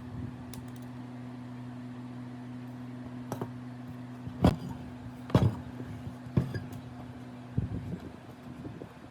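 A steady low electrical hum, with a handful of sharp clicks and knocks from about three seconds in, the loudest near the middle, as of metal tool parts being handled.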